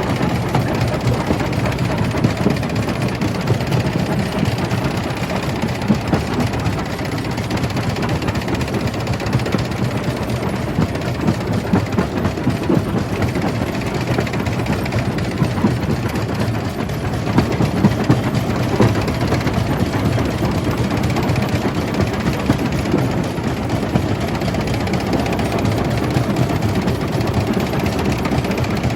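Jaw crusher running and crushing rock: a steady low rumble with a continuous, irregular clatter of stone.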